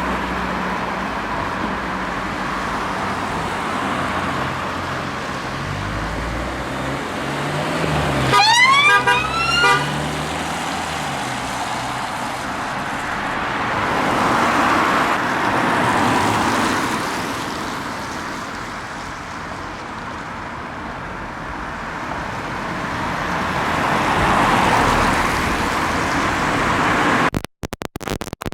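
Road traffic running past, with a police car's siren giving a short burst of quick rising whoops about eight seconds in, the loudest sound; vehicles swell past twice later on.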